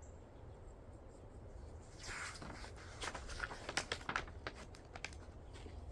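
Pages of a picture book being turned and handled: a short paper swish about two seconds in, then a run of light clicks and taps.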